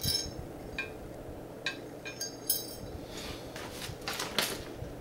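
Metal parts of a balance bike clinking and knocking as they are handled and fitted together: a handful of sharp clinks in the first half, then a rattling scrape from about three seconds in.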